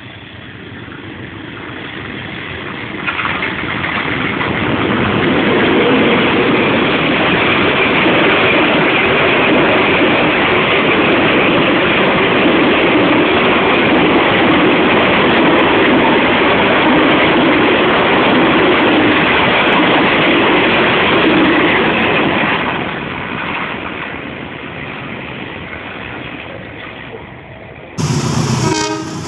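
A train passing close by: a rumbling rush of wheel and engine noise that swells over the first few seconds, holds steady, then fades from about two-thirds of the way in. Near the end it cuts abruptly to a different, louder sound.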